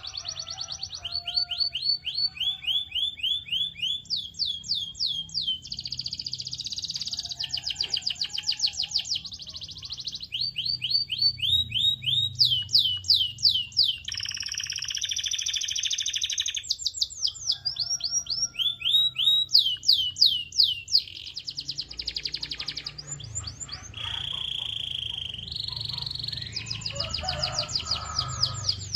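Domestic canary singing a long unbroken song of rapid trills. Each phrase repeats one quick note many times, then switches to another every second or two, with some buzzy rolls among them.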